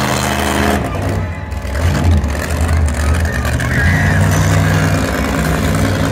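Monster truck engine running loud and being revved, its note shifting up and down in pitch, easing off briefly about a second in.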